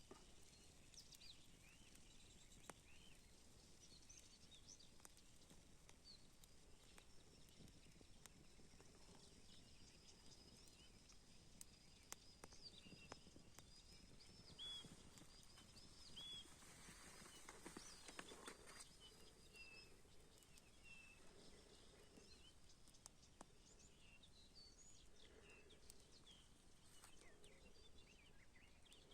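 Faint birdsong, many short chirps and whistles from several birds, with a campfire crackling in sharp clicks now and then.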